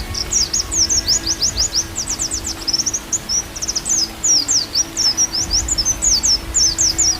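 White-eye (pleci) song: a fast, unbroken chatter of short, high notes, most sweeping downward. Under it run soft, steady low tones of bamboo flute (seruling) music and a low rumble.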